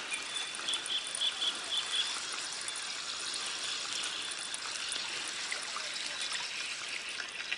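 Outdoor insect chorus: crickets chirping over a steady high hiss, with a quick run of short chirps in the first two seconds.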